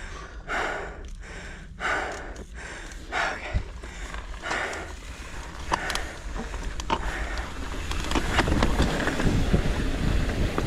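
A rider breathing hard, about one breath every second and a half. Then a mountain bike gets rolling on a rough dirt trail, with sharp clicks and rattles and tyre and wind noise growing over the last few seconds.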